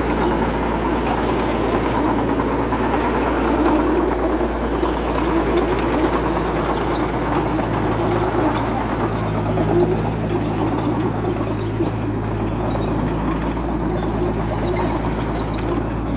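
Heavy-equipment diesel engine running steadily, its low hum becoming more even from about eight seconds in.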